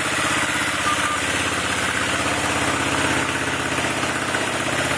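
Honda CB360's air-cooled parallel-twin engine idling steadily with an even, regular exhaust pulse and no revving. It is idling pretty well, though its carburetors need to be rebuilt.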